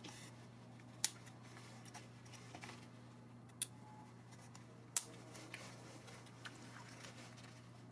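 Quiet room tone with a steady low hum, broken by a few sharp clicks: three clear ones about a second, three and a half and five seconds in, with fainter ticks between.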